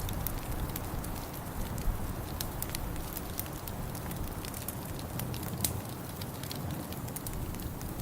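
Wood fire crackling, with frequent irregular sharp pops and a few louder snaps, over a steady low rumble.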